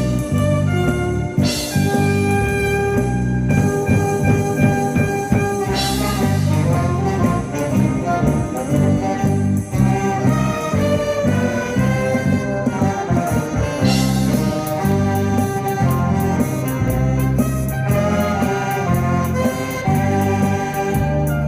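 Live band playing an instrumental trot medley: a horn-like lead melody over bass and drums.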